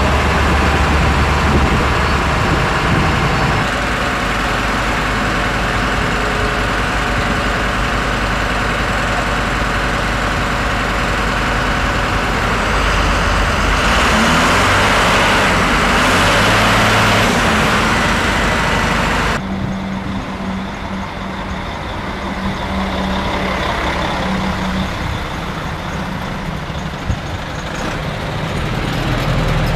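Heavy vehicle engines running at idle amid road traffic noise. The sound changes abruptly about two-thirds of the way through to a quieter mix of the same kind.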